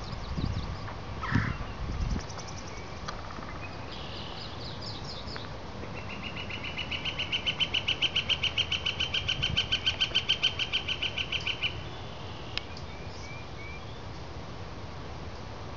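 A songbird sings one long, even trill of rapid high notes, about seven a second, lasting about six seconds, with short chirps from other birds before and after it.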